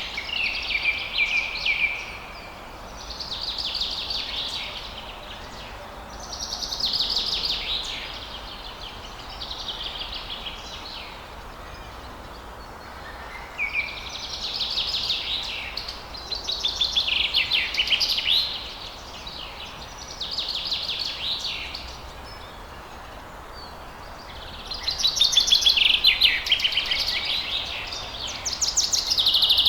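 A songbird sings short phrases of rapid, twittering notes, each a second or two long, with a pause of a second or two between them, over a faint steady hiss of outdoor background. The loudest phrase comes near the end.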